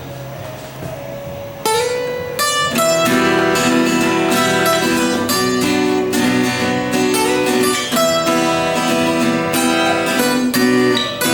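Acoustic guitar strumming and picking the opening of a folk song, starting loudly about two seconds in after a faint held tone.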